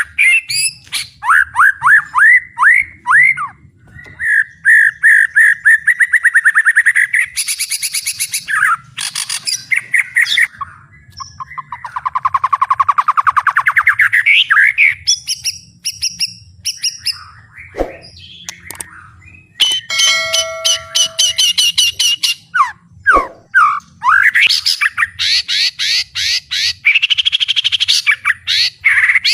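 White-rumped shama (murai batu) singing loud and full, in a varied song of rapid sweeping notes, fast harsh rattles and trills, with a few steady whistles about two-thirds of the way through. The song is packed with isian, the borrowed phrases of other birds that keepers prize in a murai batu.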